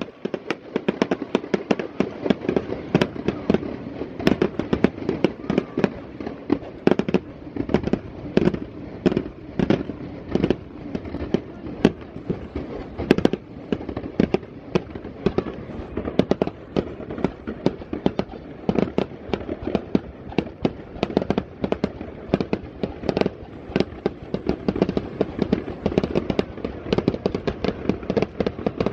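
Stadium fireworks display: a rapid barrage of launch and burst bangs, several a second, going on without a break.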